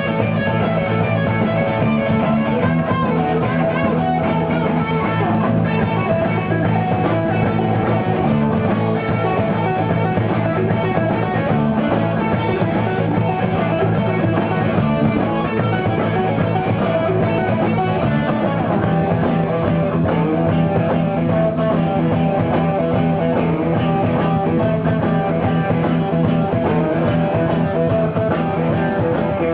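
Live rock band playing, with guitar to the fore over a steady bass line, loud and continuous.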